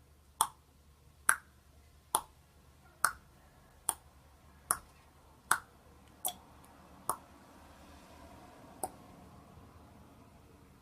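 Sharp clicks or taps repeating evenly, about one every 0.8 seconds. Nine come in a row, then there is a pause and one last click near the end.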